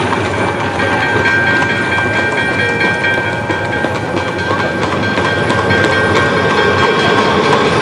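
Train running on rails, added as a sound effect: a continuous rolling rumble with a steady high squeal over it.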